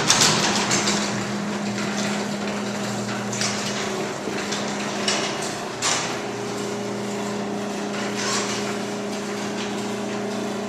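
LiftMaster 1/2 hp belt-drive garage door opener closing a sectional door: a steady motor hum under the rumble and rattle of steel rollers in the track, with a few sharp knocks along the way. It starts abruptly.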